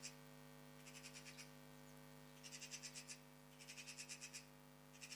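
An animal calling in short, fast-pulsed trills, each about half a second long and coming roughly once a second, over a steady electrical hum.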